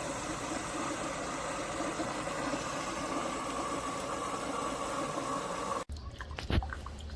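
Keurig K-Supreme Plus coffee maker brewing: its pump runs with a steady hum, then cuts off suddenly about six seconds in, followed by a few drips as the brew finishes.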